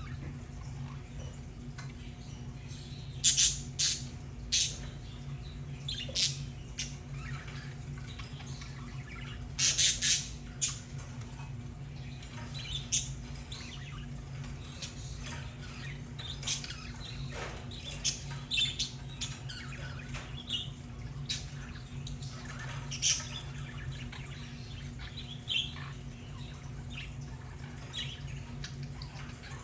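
Budgerigars chirping and squawking in short, sharp, scattered calls, a few louder squawks standing out among the softer chatter.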